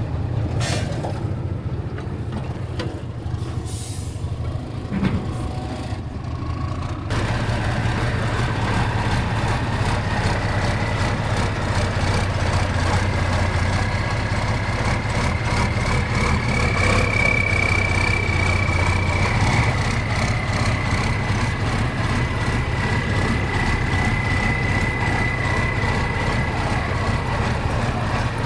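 Heavy off-road competition truck's diesel engine running steadily under load, with a thin high whine over it through much of the second half.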